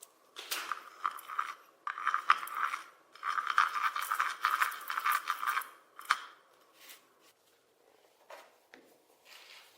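Rapid scratchy scraping strokes from a hand tool worked on a part, in three bursts that each last about a second or more. A single sharp click follows about six seconds in, then a few faint handling noises.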